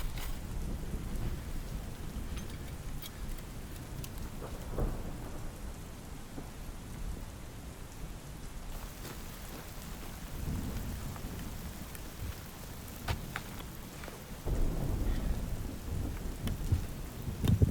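Steady rain falling with scattered drop hits, under low rolling thunder that swells louder near the end.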